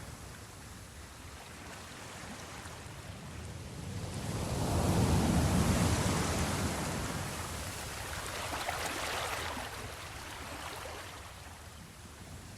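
Ocean surf: a wave swells and breaks about five seconds in, followed by a smaller hissing wash a few seconds later.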